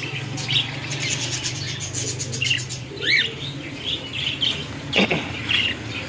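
Small cage birds chirping, with short scattered high calls and one sweeping call about three seconds in, over a steady low hum. A single knock comes about five seconds in.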